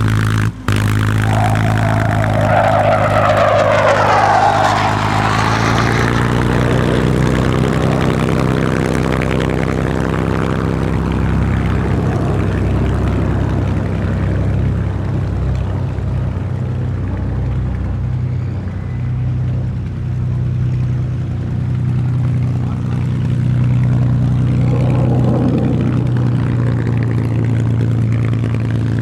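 Merlin piston aero engine of a warbird running steadily at low power, with a rising surge in pitch a few seconds in. There is a very brief dropout in the sound near the start.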